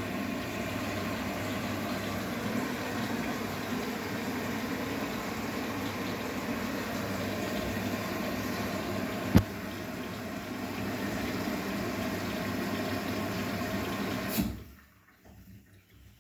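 Arçelik 9120M washing machine taking in water: a steady rush of water with one sharp click about nine seconds in, stopping abruptly with a click near the end as the fill shuts off.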